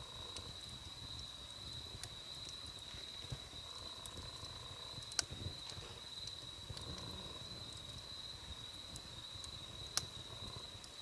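Wood campfire crackling: sparse sharp pops, the loudest about five seconds in and again near the end, over a low rumble of burning, with a steady high-pitched tone behind it.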